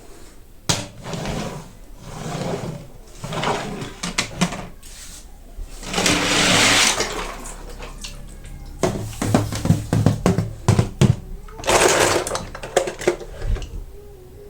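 Packaging being handled and opened: rustling and tearing noise that swells several times, with a louder burst about six seconds in, then a run of sharp clicks and taps.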